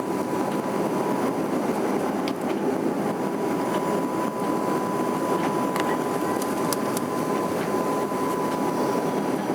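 Steady engine and airflow noise inside an airliner's cabin in flight, with a thin steady whine over it and a few faint clicks.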